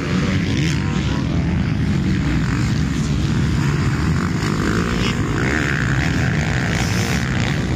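Motocross bike engines running on the track, a steady loud drone. A higher engine note comes in about five seconds in and lasts under two seconds.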